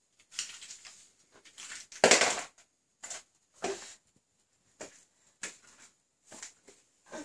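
A dog crunching and scuffling empty Pot Noodle pots as it plays: a run of short, irregular crunches, the loudest about two seconds in.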